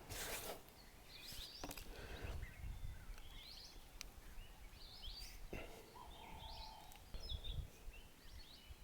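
Faint bird chirps in the background, with a few soft clicks.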